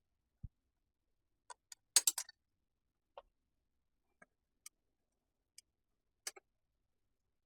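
Scattered light clicks and taps with a short rattle about two seconds in, from small screws and plastic dust-chute parts being handled and fitted to a miter saw. A dull knock comes just before.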